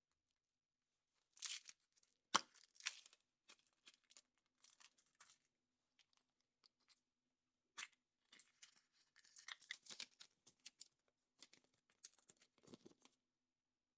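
Foil wrapper of a chocolate surprise egg being torn and crinkled off by hand, in irregular crackling bursts with a sharp snap about two seconds in.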